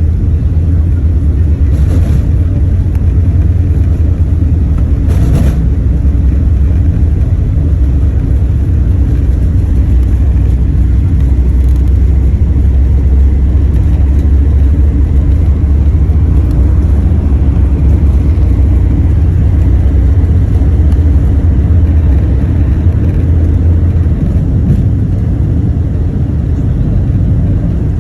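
Airbus A380 cabin noise: a loud, steady low rumble of the jet engines and airflow heard from inside the passenger cabin, with two brief clicks about 2 and 5 seconds in.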